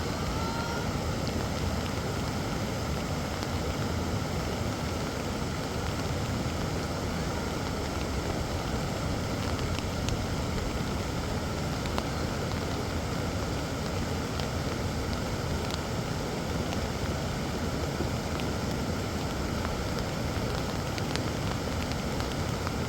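Heavy rain with wind, a steady unbroken rushing noise.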